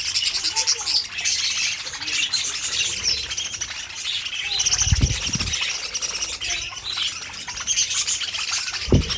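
A flock of budgerigars chirping and warbling continuously, many birds at once. Two short low thumps break in, about five seconds in and near the end.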